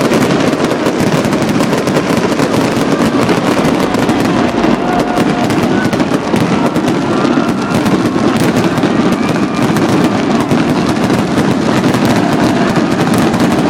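Fireworks finale: a dense, continuous barrage of bangs and crackling with no let-up, heard through an iPod touch's small built-in microphone.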